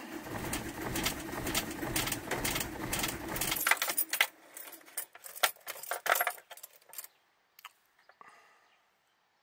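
VW T4 Transporter diesel engine cranking on the starter motor for about three and a half seconds without catching, then stopping abruptly; the owner suspects the glow plugs have given up. A run of sharp clicks and rattles follows, dying away.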